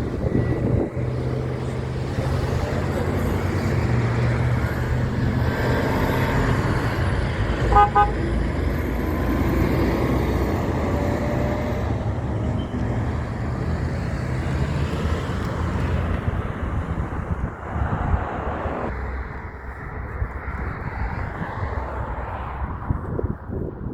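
Heavy truck engine passing close by, building up and then fading away. The truck gives a brief horn toot about eight seconds in.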